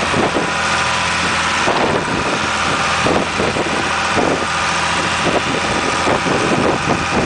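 A vehicle engine running with a steady drone, heard from inside, with scattered knocks and rattles over it.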